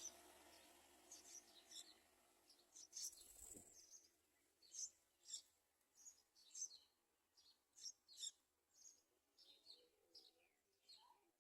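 Yellow-vented bulbul nestlings chirping faintly: short, high chirps repeated one or two times a second.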